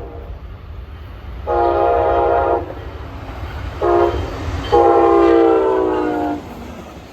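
Freight locomotive's multi-chime air horn sounding the grade-crossing pattern: a long blast, a short one, then a final long blast that falls slightly in pitch as it goes, over the low rumble of the moving train.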